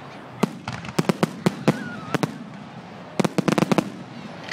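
Fireworks display: aerial shells bursting in a series of sharp bangs, single cracks at first and then a dense rapid run of bangs about three seconds in.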